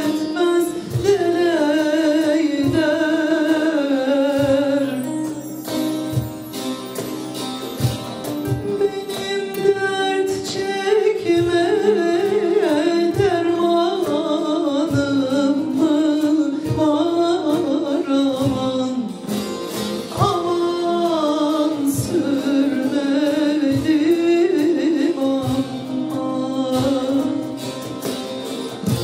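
Turkish folk song (türkü) performed live: a singer's ornamented, wavering melody over plucked saz and regular hand-drum beats.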